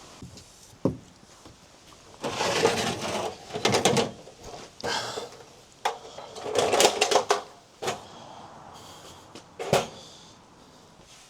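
Irregular knocks, clicks and rattles of equipment being handled, a sharp knock about a second in and clattering stretches in between, with no saw motor running.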